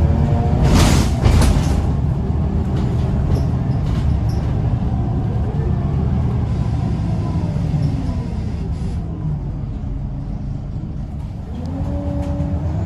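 Scania L94UB bus's diesel engine pulling hard, with a short burst of air hiss about a second in. Near the end the engine note sinks, then climbs again.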